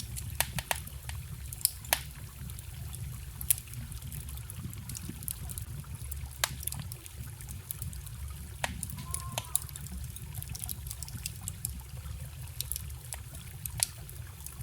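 Wood fire crackling, with sharp pops at irregular intervals, over the steady low rush of a trickling forest stream.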